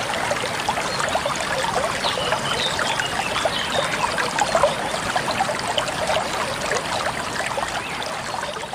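Running water, a steady trickling and splashing like a small stream or waterfall.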